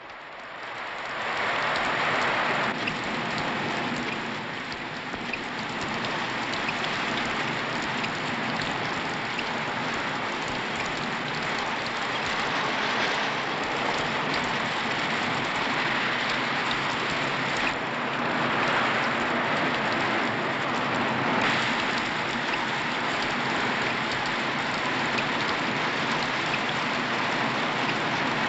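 Steady heavy rain, a dense hiss flecked with small drop ticks, fading in over the first second or so.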